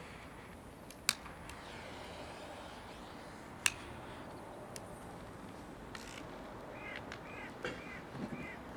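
A bird calling four times in short, arched notes near the end, after two sharp clicks earlier on, over a steady background hiss.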